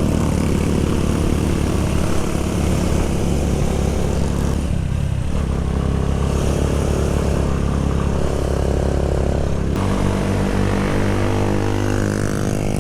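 Small Chinese single-cylinder motorcycle engine, around 200cc, running steadily under way; the engine note changes about five seconds in and again near ten seconds in.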